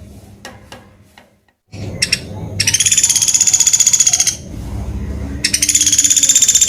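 Pelatuk beras, a small woodpecker, calling in two fast chattering trills of about two seconds each, about a second apart, after a few faint clicks.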